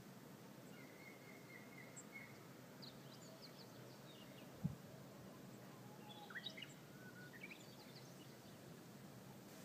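Faint birdsong: scattered short chirps and whistles from small birds over a low steady hiss, with one brief low thump about halfway through.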